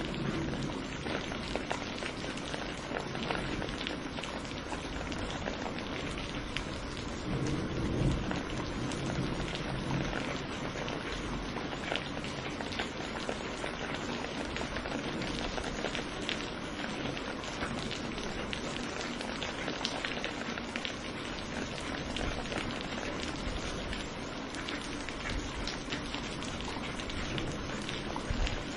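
Steady rain pattering on a surface, dense with individual drop hits. A low rumble of thunder swells about seven seconds in and fades a few seconds later.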